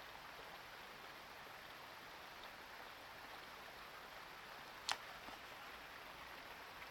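A steady faint hiss with a single sharp click about five seconds in.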